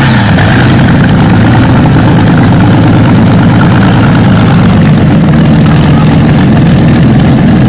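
A large engine running loudly at a steady speed, with a deep, even rumble.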